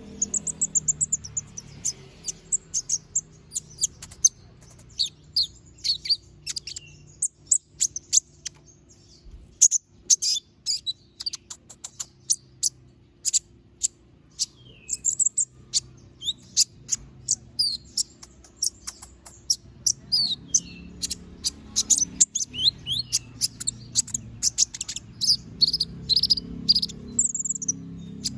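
Kolibri ninja (konin) songbird singing a fast string of sharp, high-pitched chirps and twittering notes in bursts, with a couple of short breaks. A faint steady low hum lies underneath.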